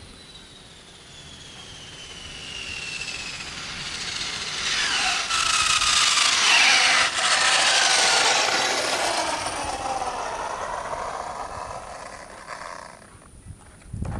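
Arrma Limitless electric RC car with its brushless motor running on 8S during a high-speed pass. The motor and gear whine builds, is loudest around the middle with its pitch falling as the car goes by, then fades away near the end.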